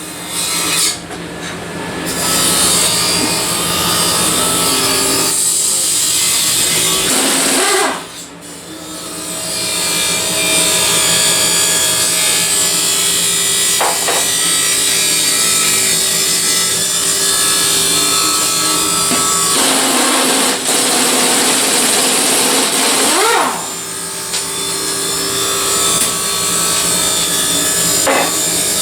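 A handheld power tool running steadily and abrading sheet metal in rust repair bodywork. It eases off briefly about eight seconds in and again after about twenty-three seconds.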